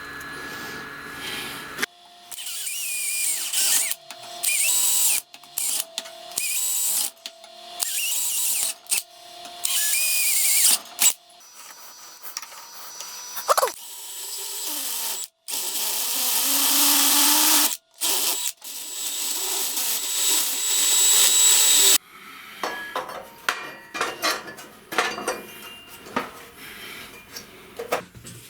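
A power tool run in a series of short bursts, then for a longer stretch of about ten seconds, followed by scattered clicks and knocks of handling.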